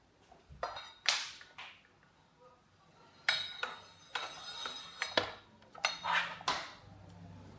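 Hard plastic toys being handled and knocked together: a run of sharp clacks and clatters, some with a short ringing clink, in several quick groups.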